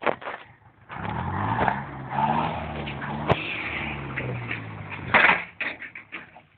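DTC 640 forest tractor's engine picking up about a second in and running hard under load, with rattling and scraping noise over it. A sharp knock comes near the middle, and a loud burst of scraping about five seconds in.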